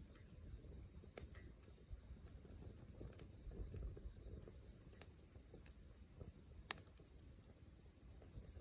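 Wood fire burning in a Uniflame Fire Grill fire pit: a faint low rumble of flames with scattered sharp crackles and pops from the firewood.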